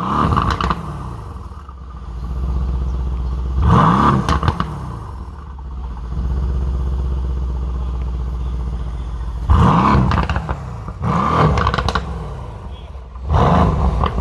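Mercedes-AMG C63 S V8 with its exhaust in Sport Plus mode, idling and revved in about five short throttle blips, the pitch rising and falling back to idle each time.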